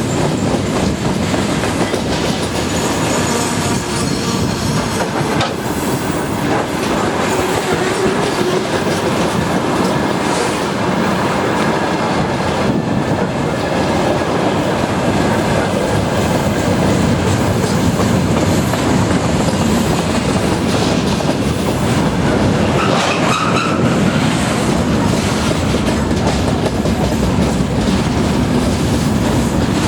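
Freight train wagons rolling past at speed: a loud, continuous rumble with wheels clacking over the rail joints, and a brief wheel squeal about two-thirds of the way through.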